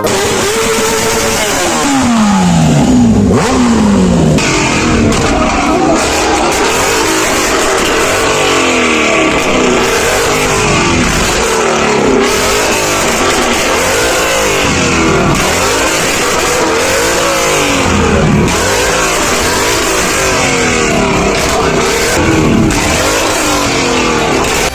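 Supercar engines revving loudly, over and over, the pitch climbing and dropping. About a second in come two long falling notes as the revs wind down.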